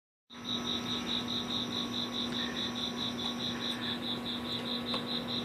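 Crickets chirping in an even rhythm, about five chirps a second, over a steady low hum.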